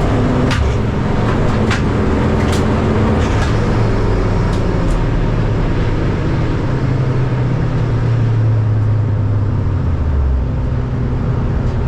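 Several car engines running steadily at low revs, their pitches shifting slowly, with a few sharp clicks in the first five seconds.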